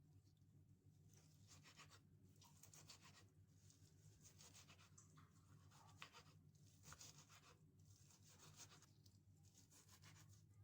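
Near silence: faint, irregular rustling over a low steady hum.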